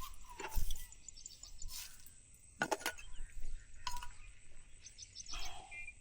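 Outdoor nature ambience: insects keep up a steady high whine while birds give short chirps. Several sharp clicks and knocks come through, the loudest about two and a half seconds in.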